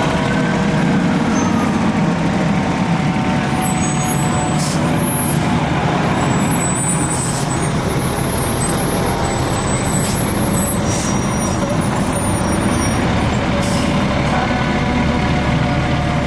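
Heavy vehicle engine running steadily in a constant wash of street noise, with a siren trailing off in the first second and scattered short high whistle-like tones.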